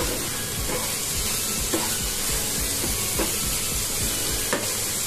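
Chicken mince frying in a nonstick pan, a steady sizzle, under background music with an even low beat about three times a second.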